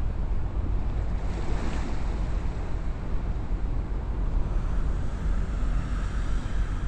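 Wind buffeting the microphone in a steady low rumble, with a seaside wash of wind and water behind it.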